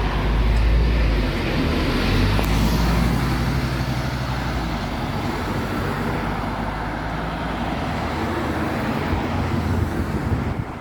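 A vehicle engine rumbling close by, loudest in the first three seconds, then easing into steady traffic-like noise.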